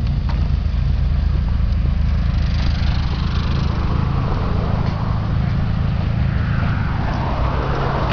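Car engines idling, a steady low hum. A hiss swells about three seconds in and again near the end.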